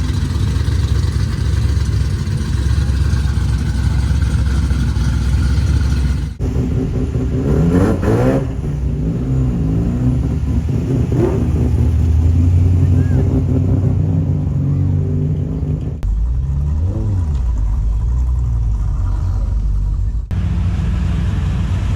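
Car engines running with a deep low note, revving up and down a few times. The sound changes abruptly three times as one clip gives way to the next.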